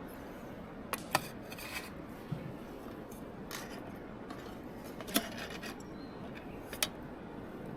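A few sharp, separate clicks, about five over several seconds, over a steady background hiss: small things being handled or snipped.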